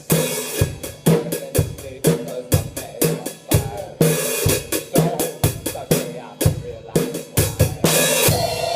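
Drum kit playing a steady rock beat, kick and snare about twice a second with hi-hat, and a crash cymbal about every four seconds. Held pitched notes sound underneath.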